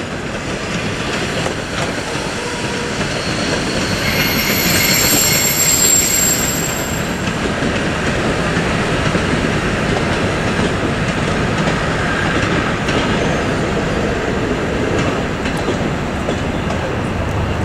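Train moving on the rails, with a high-pitched wheel squeal about four seconds in that peaks around six seconds and fades by seven.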